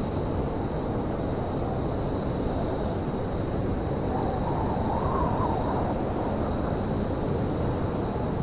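Winter railyard ambience: a steady low rumble with a constant thin high whine over it, and a faint wavering tone that rises and falls around the middle.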